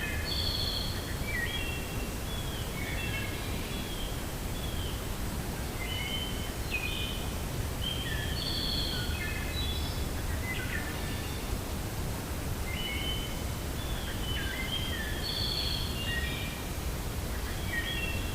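Birds chirping in repeated bouts of short, quick notes over a steady low rush of wind through a forest.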